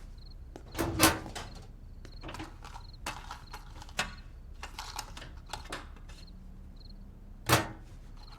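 Insects chirping in a steady, evenly spaced pulse, with scattered knocks and rustling from handling objects; two sharp louder thumps stand out, about a second in and near the end.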